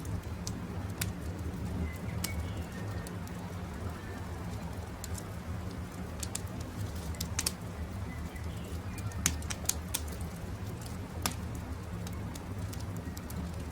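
Wood fire crackling with irregular sharp pops over a steady low rumble, with faint bird chirps in the background.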